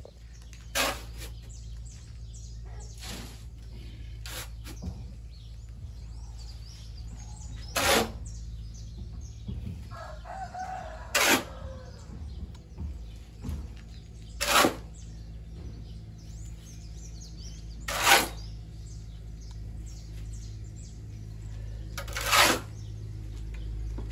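Short, sharp scraping strokes every three to four seconds over a steady low hum, with a rooster crowing once about ten seconds in.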